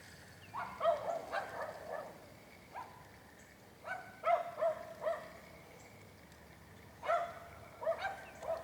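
A dog barking in three short runs of several barks each, about three seconds apart.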